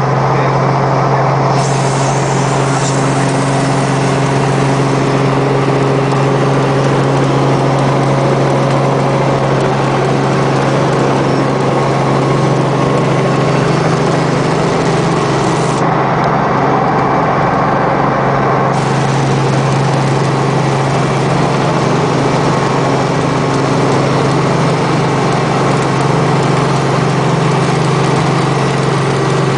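Helicopter in flight: loud, steady engine and rotor noise with a strong low hum.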